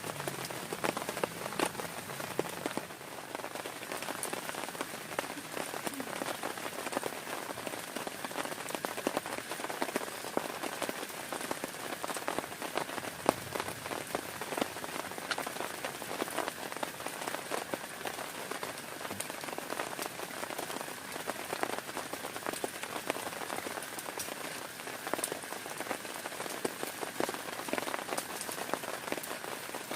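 Heavy rain falling steadily on a tent, with many sharp individual drop hits on the fabric.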